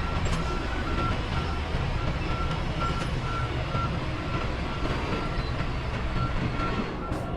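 Backup alarm on a reversing semi-truck, beeping steadily about twice a second over the low rumble of the truck's diesel engine.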